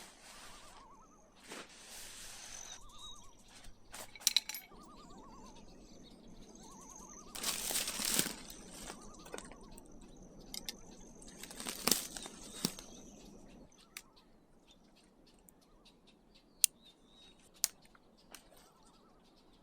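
Fabric and packed camping gear rustling and crinkling as it is handled, in a few loud bursts with occasional sharp clicks, over faint background bird calls.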